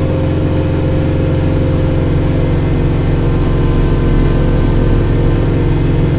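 Kubota tractor's diesel engine running steadily, driving the rear-mounted snowblower while clearing snow.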